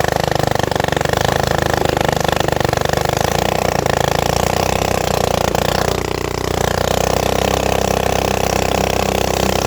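Straight-piped four-stroke mini bike engine running loudly with a rapid, even firing rhythm. The revs dip briefly about six seconds in and then pick back up.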